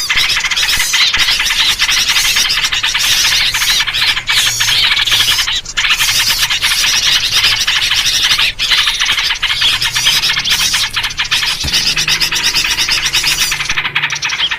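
A dense, unbroken chorus of many small birds chattering and calling at once, a noisy bird-luring (pikat) recording centred on yellow-vented bulbul (trucukan) calls. This kind of agitated chorus is played to draw wild birds in.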